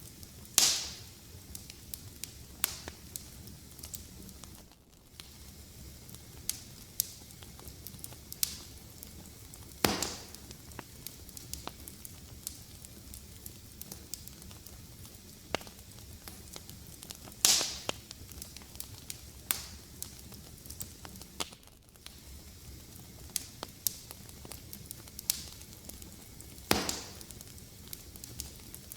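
Wood fire crackling: a steady low hiss with constant small sharp snaps, and a few louder pops about every eight seconds.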